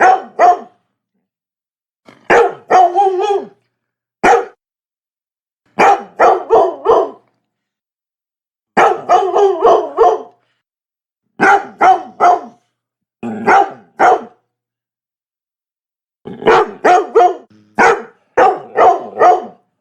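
Labrador barking in quick bursts of two to five barks, with gaps of dead silence of a second or two between bursts and a longer run of barks near the end.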